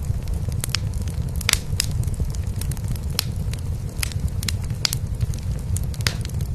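A cat purring in a steady low rumble, mixed with a wood fire crackling in a fireplace, with many sharp pops.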